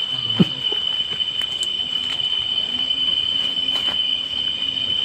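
Steady high-pitched trill of night insects, with a single sharp knock about half a second in.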